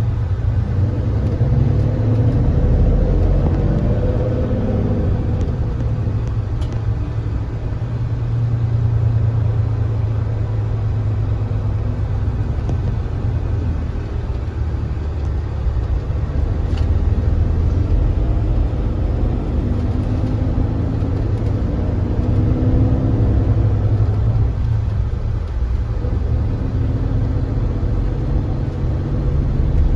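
Kia Granbird Sunshine coach's diesel engine running under load as the bus pulls away and accelerates, a steady low rumble whose pitch rises and falls a few times.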